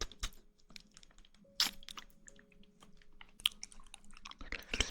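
Close-miked mouth sounds of chewing jelly: scattered small wet clicks, with a louder burst about a second and a half in and a denser run of clicks near the end.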